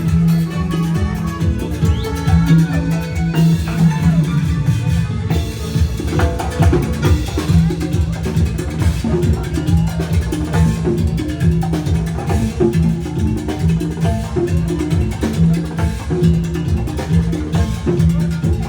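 A band playing an instrumental passage of a Latin dance song, with a steady percussion beat and a repeating bass line and no singing.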